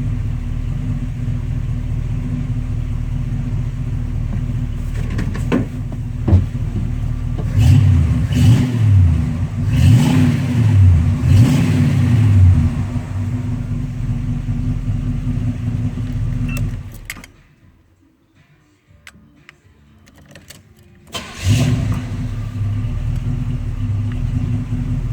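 Chevrolet El Camino engine idling steadily, revved several times in a row, then settling back to idle. It is shut off for a few seconds, then started again and runs on at idle.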